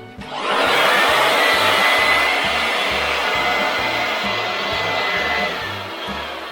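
Electric air blower running, a steady rush of air with a faint whistle, starting about half a second in and easing off near the end.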